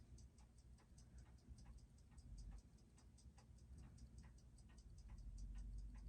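Faint, steady ticking of a freshly serviced Seiko 6R15 automatic watch movement, about six beats a second, as it is checked on a timing machine.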